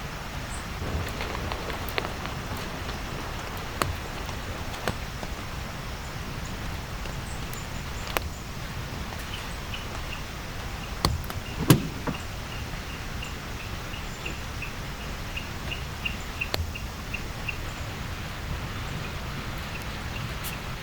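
Steady rainfall with scattered heavier drops tapping sharply, two louder knocks just before halfway. A faint high chirp repeats a couple of times a second through the middle stretch.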